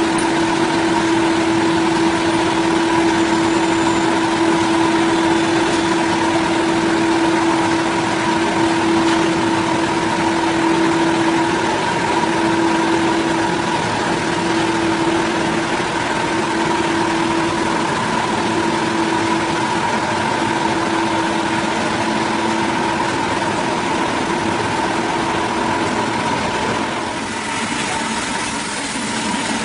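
A motor-driven saw running steadily through wood, with a constant whine over a dense mechanical noise. Near the end the whine fades out and the sound eases off slightly.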